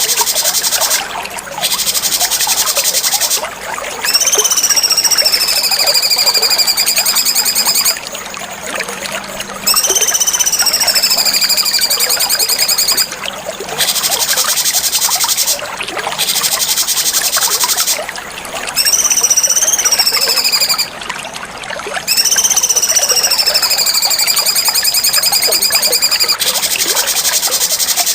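Cucak cungkok song: a loud, high, very fast trill broken by short pauses every second or two. Four times it is joined by a long whistled note that rises briefly, then slides down and levels off.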